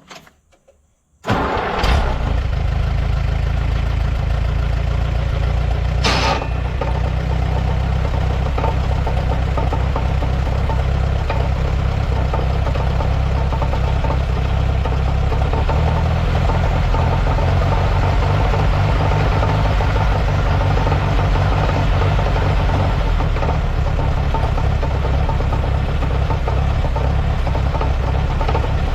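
1948 Allis-Chalmers C tractor's four-cylinder gasoline engine starting about a second in, then running steadily.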